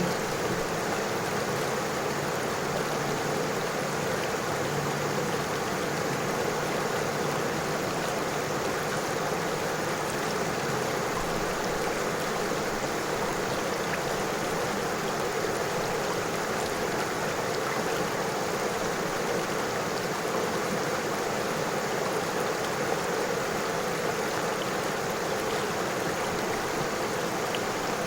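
River water flowing over stones: a steady, unchanging rush.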